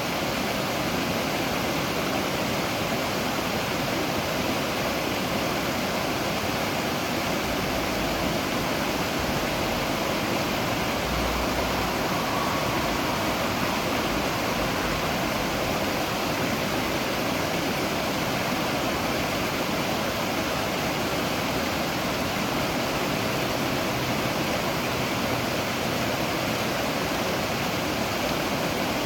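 Waterfall: water falling and rushing in a steady, even roar of white noise with no breaks.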